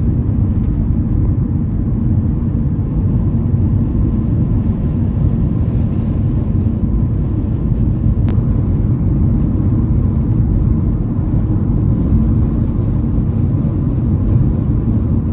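Steady low rumble of wind noise and road noise from a moving car, with wind heavy on the microphone. A single faint click a little past halfway.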